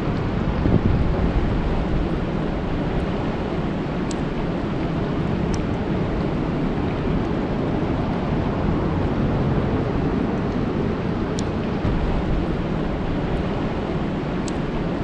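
Steady rain falling on a lake: a dense, even hiss with a low rumble, and a few faint high ticks scattered through it.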